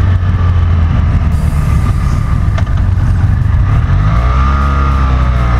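BMW F800GT's parallel-twin engine running steadily under way, its note shifting about four seconds in.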